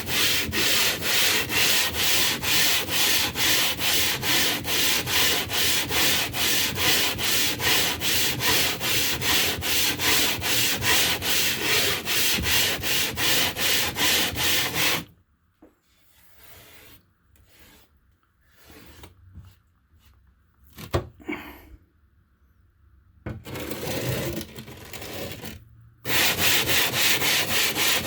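A piece of limestone being rubbed back and forth to grind it flat, in quick even strokes at about three a second. About halfway through, the strokes stop for roughly ten seconds, leaving only faint handling sounds and a single knock, then start again near the end.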